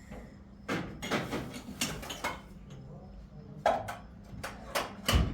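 Knocking and clattering of household objects being handled, in irregular clusters, with a heavier thump near the end.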